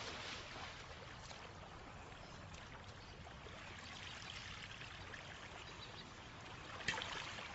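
Cartoon sound effect of steady rushing, flowing water, with a brief sharper splash-like sound near the end.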